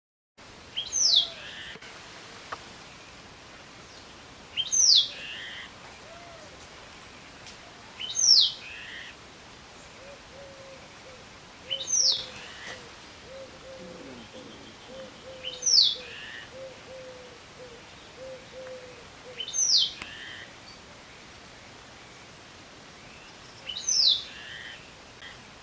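A bird calling: a short, high, downward-sliding whistled note repeated seven times, about every four seconds, over steady background hiss.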